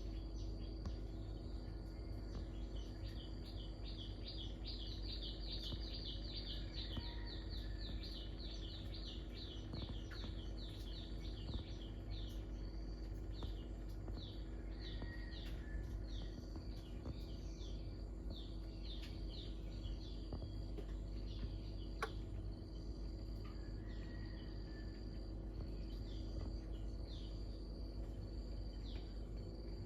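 Outdoor chorus of insects: a steady high trill, joined about three seconds in by a run of quick high falling chirps, several a second, that slow and thin out toward the end. A steady low hum runs underneath, with a single sharp click about two-thirds through.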